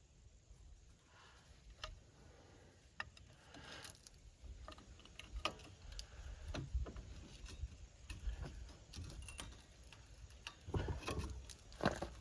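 Irregular metallic clicks, clinks and knocks of hand tools and brake parts being handled during work on a car's brakes, growing busier and louder near the end.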